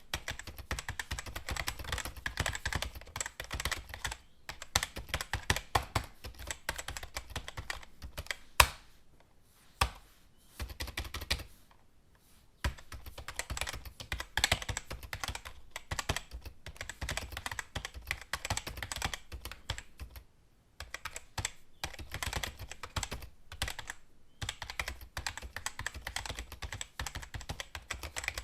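Computer keyboard being typed on in fast runs of key clicks, broken by short pauses, with one louder key strike or tap near the middle.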